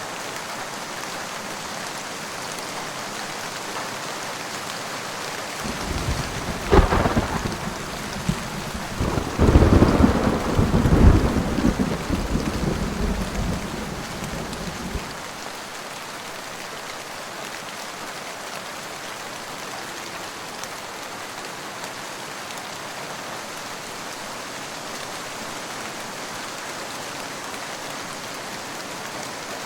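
Steady rain with a thunderclap: a sharp crack about seven seconds in, then a rolling rumble that swells and dies away by about halfway, leaving the even hiss of rain.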